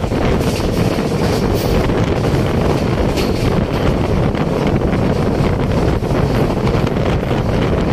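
Wind buffeting the microphone over the steady running noise of a moving passenger train, heard from its open door.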